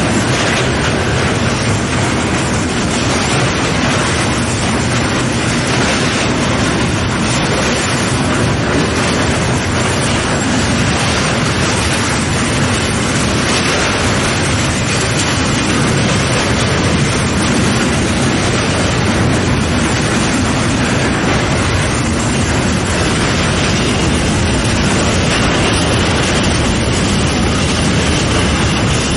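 Freight train of covered hopper wagons rolling past close by: a loud, steady rumble of steel wheels on the rails.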